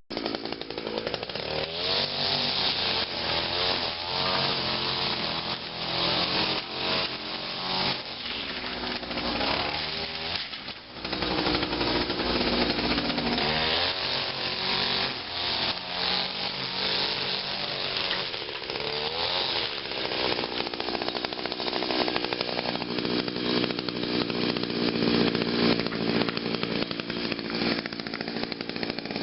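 Echo SRM 2400SB string trimmer's small two-stroke engine running and being revved up and down over and over, with a brief dip in level about eleven seconds in. It runs smoothly, back in working order after the repair.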